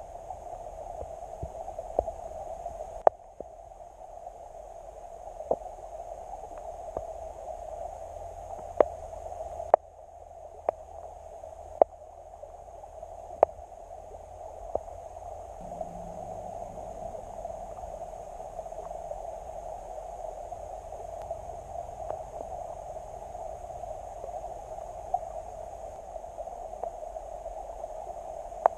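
Steady rushing of creek water, with a dozen or so sharp clicks scattered through it.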